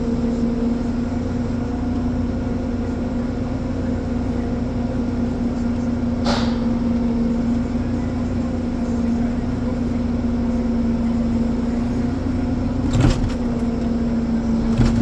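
Ponsse Elephant forwarder's diesel engine running steadily, a constant droning hum heard from inside the cab. Two short knocks or rattles break through, about six seconds in and again about thirteen seconds in.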